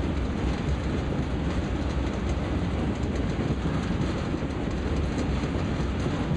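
Train running steadily across a steel truss bridge, a continuous rumble of wheels on rails heard from aboard a flatcar.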